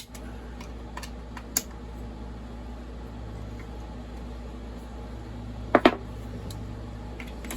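Small metal clicks of tools and chainsaw parts being handled over a steady low hum, with a sharp double click about six seconds in.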